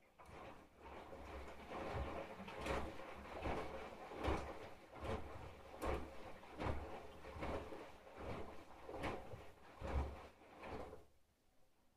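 Candy GrandO Plus washing machine drum turning with a small load of shirts: rhythmic swishing thuds a little more than once a second as the wet laundry tumbles. It starts after a pause and stops near the end, the machine's usual turn-and-rest wash action.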